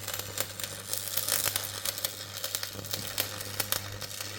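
Dense, irregular crinkling and crackling, as of material being handled, over a low steady hum.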